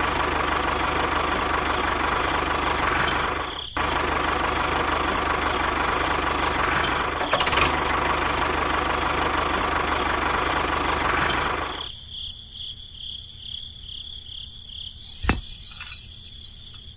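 Small electric motor of a DIY miniature machine running with a steady, rough buzz, cutting out briefly near four seconds in. About twelve seconds in it drops away to a much fainter high whine.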